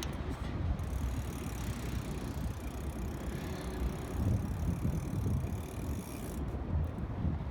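Steady low rumble of a BMX bike being ridden: tyres rolling on pavement, with wind on the microphone.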